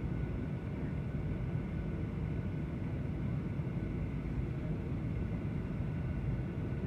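Steady drone of an airliner in flight, heard from inside the cabin: a low, even rumble of engines and airflow with a faint steady whine above it.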